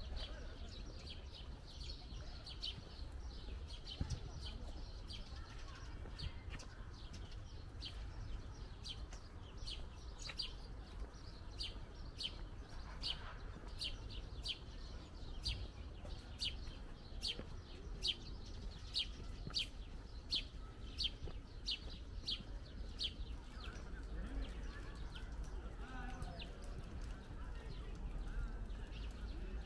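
A small bird chirping over and over, short high notes at about one to two a second that keep on through most of the stretch, over a steady low rumble.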